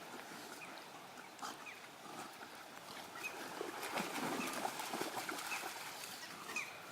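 Two dogs growling and scuffling as they tussle over a stick, louder and busier about halfway through.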